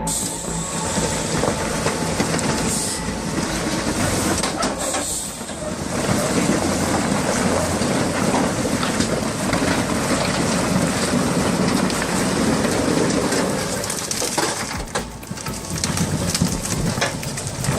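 A heavy truck and trailer on the move: a steady rumble with rattling and clattering.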